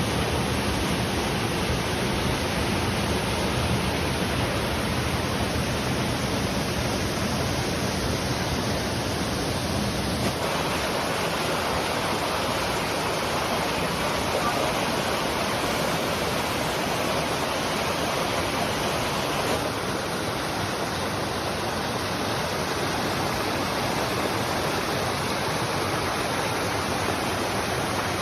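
Waterfall rushing: a steady, loud roar of falling water that changes character slightly about ten and twenty seconds in.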